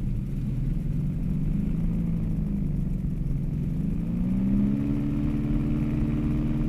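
Engine of a small aircraft in flight, droning steadily. Its pitch sags a little, then rises about four seconds in and holds higher as the throttle is opened.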